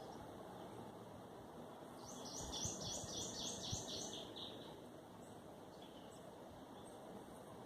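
A bird singing a quick run of about nine repeated high notes, starting about two seconds in, over a faint steady outdoor background noise.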